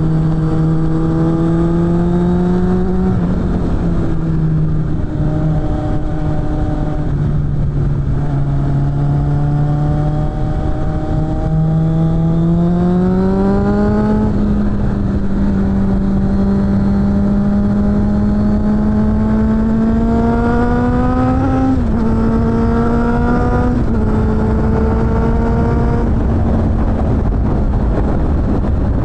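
Suzuki GSF600 Bandit's inline-four engine through a BOS aftermarket exhaust, riding under load. The revs hold steady, climb steadily for several seconds, and drop sharply at two quick gear changes about three-quarters of the way in.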